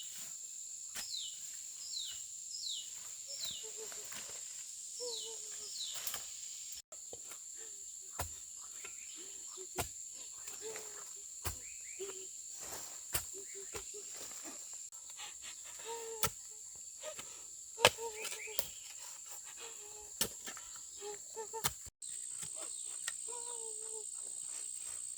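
Steady high-pitched drone of insects such as crickets or cicadas, with a run of short falling bird chirps in the first few seconds and scattered sharp knocks and brief calls throughout.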